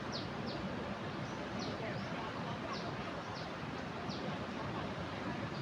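Steady rush of a river in flood. Above it, a bird repeats short, high chirps, each falling in pitch.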